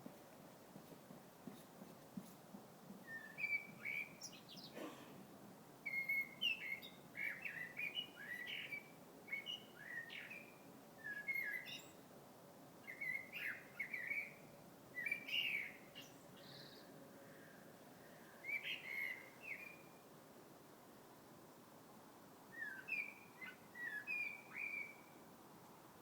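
A bird singing: bouts of quick, chirping notes, each bout lasting one to three seconds, separated by pauses of a second or more.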